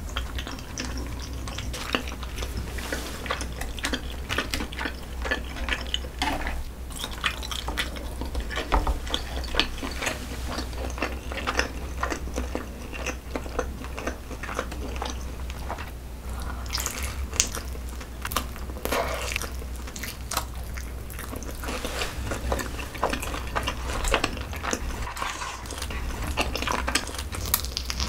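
Close-miked eating sounds: irregular wet chewing and mouth clicks as soft, saucy braised chicken, noodles and a flat dumpling are bitten and chewed.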